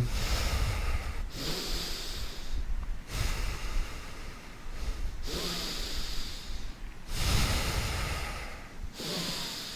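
A person's deep, audible breathing close to the microphone during yoga practice: several slow, full breaths, each about two seconds long.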